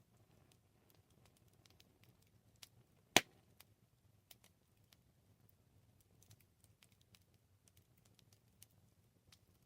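Wood fire crackling: scattered small pops and ticks, with one louder pop about three seconds in.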